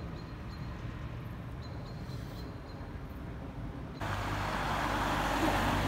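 Steady low rumble of a passenger train running along an elevated track. About four seconds in, it is abruptly replaced by a louder rushing noise with a low hum.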